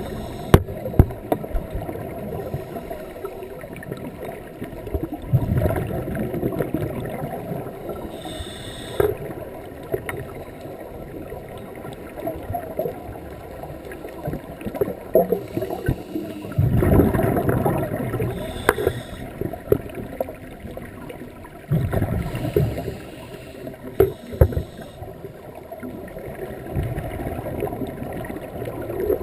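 Scuba diver's exhaled bubbles from the regulator, heard underwater: a gush of bubbling every few seconds, with a constant crackle between breaths.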